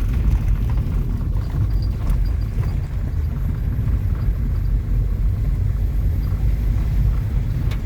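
Car driving along a forest road: steady low rumble of tyres and engine, with a few faint light knocks.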